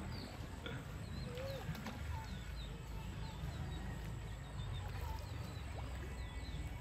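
Small birds chirping, short high calls repeating every half second or so, over a low steady rumble.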